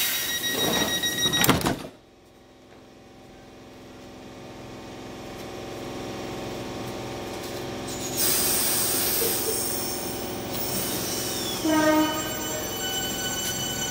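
Electric multiple unit train pulling away from a station platform. After a loud rushing noise that cuts off suddenly about two seconds in, the motor whine of several steady tones builds gradually. A hiss comes in about eight seconds in, and near the end the motor tone slides down and changes pitch in steps.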